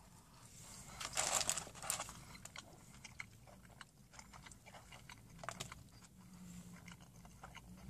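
A person biting into a cheesesteak sub on soft bread and chewing it. The loudest bites come about a second in, followed by quieter chewing.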